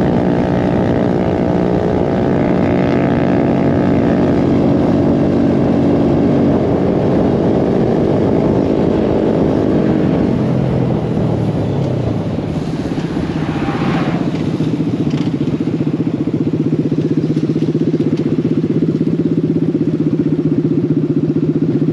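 Small mini bike engine running under way. Its pitch drops about ten to twelve seconds in as it slows, then it runs steadily at a lower speed, with a brief high squeal about fourteen seconds in.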